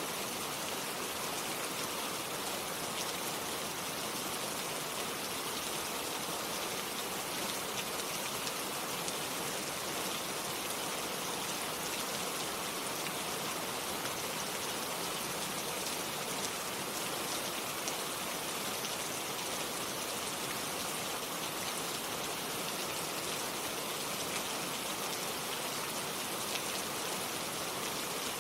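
Steady rainfall: an even hiss of rain with fine, close-spaced drop patter on a surface.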